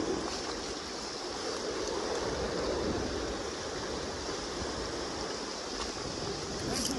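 Steady rushing of the Kenai River's current, with a light click near the end.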